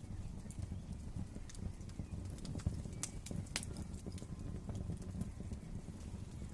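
Wood fire crackling in a fireplace: a steady low rumble of burning with scattered sharp pops and snaps, two louder pops around the middle.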